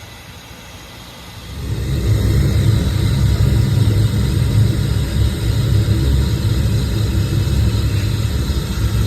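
Gas heating section of an old York rooftop unit lighting off about a second and a half in, then running with a loud steady low rumble as the burners fire on a call for heat.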